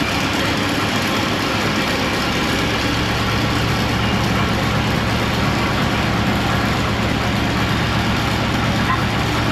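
A heavy engine idling steadily, with no change in speed.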